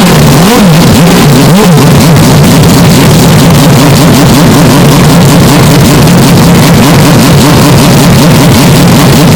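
Hyundai Elantra N's turbocharged four-cylinder engine: two short rev rises and falls in the first two seconds, then a steady drone, heavily distorted by the boosted recording.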